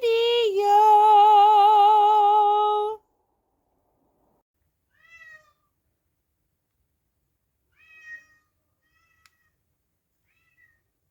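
A cat's long, drawn-out meow with a wavering pitch for about three seconds, then a few faint short meows later on.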